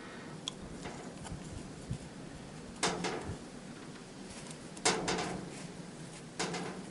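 Clicks and light knocks of small metal parts being fitted by hand into a van's heater fan motor. There are three sharper clicks, about three, five and six and a half seconds in.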